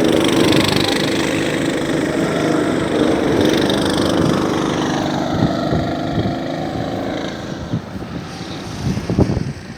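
Small go-kart engine running at speed, its pitch sliding down partway through as it eases off, then growing quieter near the end.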